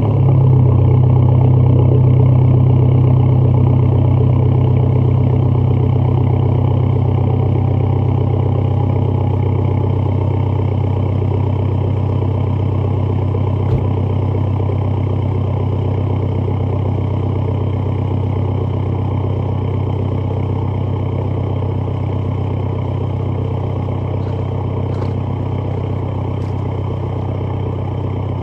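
Volkswagen Jetta Mk5 1.9 TDI four-cylinder turbodiesel idling just after a cold start, straight-piped from the cat-back: a steady, loud diesel idle that eases slowly in loudness as it settles. A single short click about 14 seconds in.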